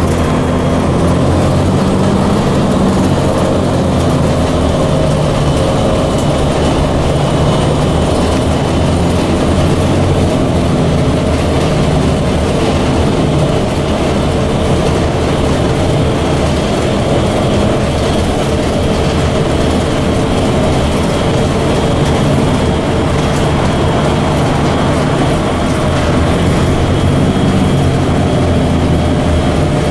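Loaded freight train flatcars rolling past, a steady noise of steel wheels running on the rails.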